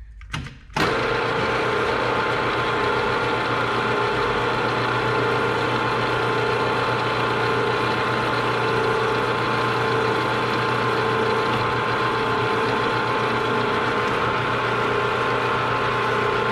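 Electric motor of a machine tool switching on about a second in and running with a steady hum while a 1/8-inch hole is drilled halfway into the knob.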